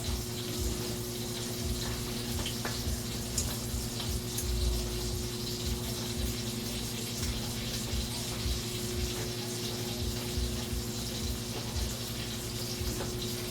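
Steak sizzling in a frying pan: a steady hiss with faint scattered crackles, over a steady low electrical hum.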